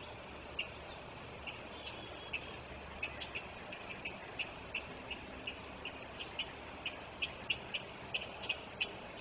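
Short, high-pitched bird chirps, single notes at first and coming more often toward the end, over the steady rush of the river.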